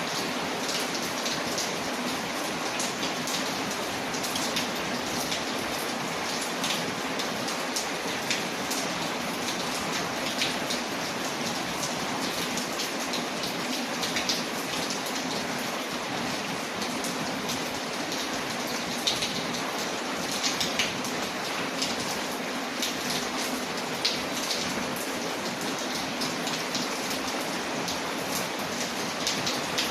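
Steady rain on a window layered with a crackling fireplace: a constant even hiss scattered with many small sharp pops, a few of them louder.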